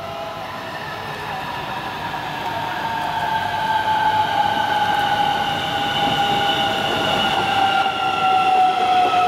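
Electric multiple-unit passenger train pulling in along the platform: its traction motors give a high whine in several layers that falls slowly and steadily in pitch as the train slows, over wheel rumble that grows louder as it comes close.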